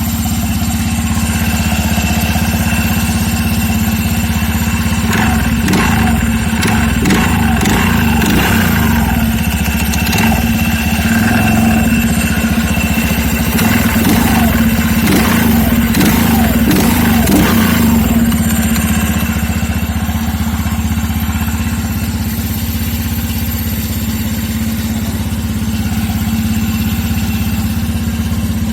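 TVS NTORQ scooter's single-cylinder engine running steadily, with an irregular rattling clatter over it from about five to eighteen seconds in; the owner takes it for a bad engine sound.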